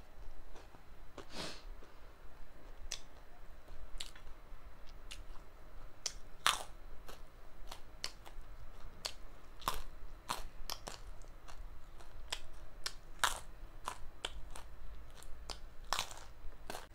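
Close-up chewing and crunching of kurkure chatpate, a crunchy spicy snack, with sharp irregular crunches roughly every half second to second, picked up by a clip-on microphone.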